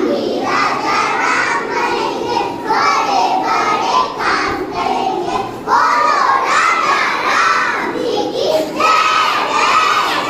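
A group of young children shouting together, loudly.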